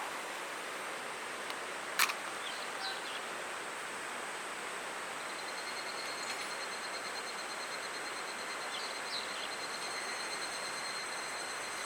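Steady rush of a mountain stream, with an insect's thin high trill coming in about halfway through. A single sharp click about two seconds in.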